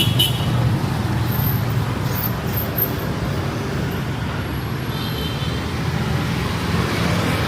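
Street traffic: a steady rumble of passing road vehicles.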